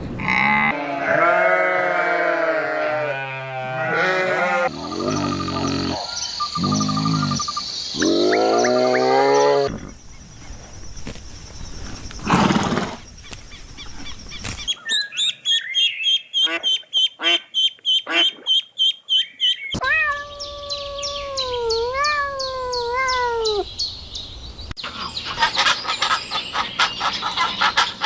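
A run of different animal calls spliced together, a new clip every five seconds or so. It goes from pitched, wavering calls, to a rapid series of short repeated notes, to three falling drawn-out calls, and ends in fast chirping or clicking.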